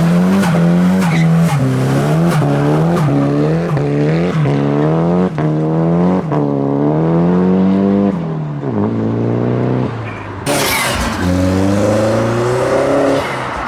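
Modified car engine revved hard in quick repeated blips, rising and dipping about twice a second, then one longer rise and fall. About ten seconds in a sudden loud hiss cuts in, and the engine revs up again.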